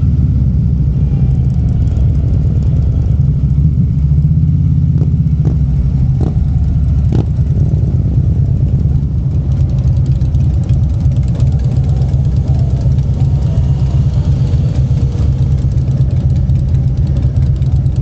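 Harley-Davidson Street Glide's V-twin engine running steadily at low revs, idling and rolling slowly. A few brief clicks come about five to seven seconds in.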